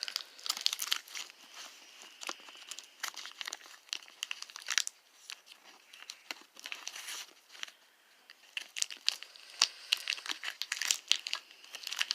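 Painter's tape being peeled off cardboard, with crackly crinkling and tearing that comes in quick bursts and goes quieter for a couple of seconds in the middle.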